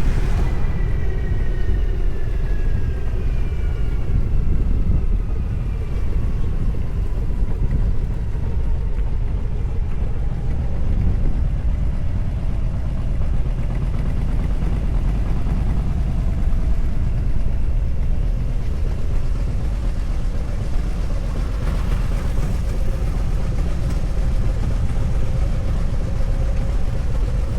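Vehicle engine and road noise at highway speed under heavy wind rush on the microphone, with an engine tone sliding down in pitch over the first several seconds.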